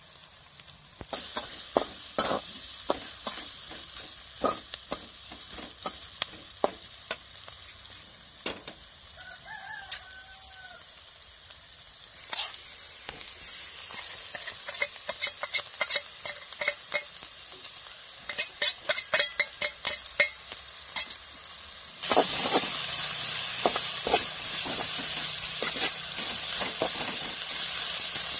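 Onions and green chillies sizzling in hot oil in a metal kadai, with a metal spatula scraping and clicking against the pan as they are stirred. The sizzle gets louder about three-quarters of the way through. A short bird call is heard about a third of the way in.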